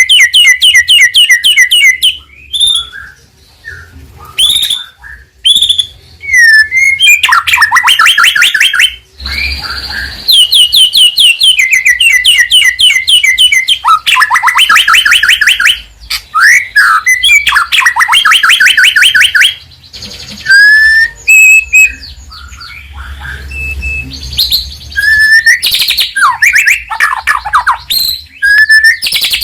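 White-rumped shama singing a loud, varied song: fast rattling trills of rapidly repeated notes, broken up by short sweeping whistles and a few brief pauses.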